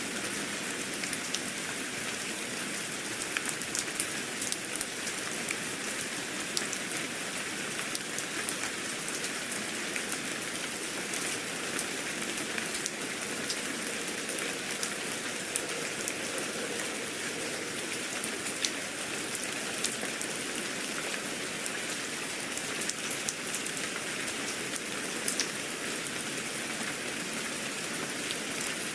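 Steady rain falling, an even hiss of rain with many small, sharp drop ticks scattered through it.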